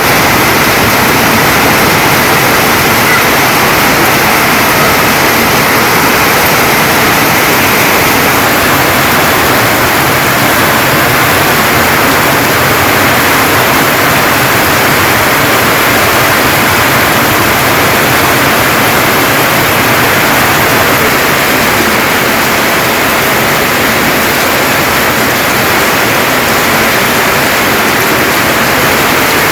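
Heavy rain pouring down in a storm downpour: a loud, steady rush that does not let up.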